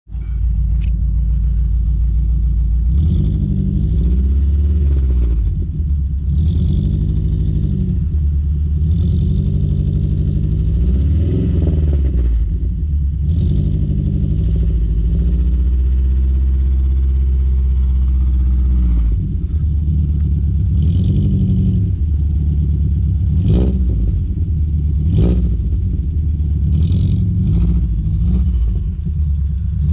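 VAZ 2114's four-cylinder engine running through a Stinger aftermarket exhaust, revved up and let back down to idle again and again, the pitch rising and falling with each blip. Two sharp cracks come about two-thirds of the way through.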